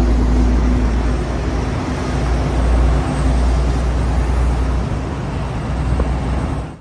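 Tram running, a steady loud low rumble with a constant hum, cutting off abruptly at the end.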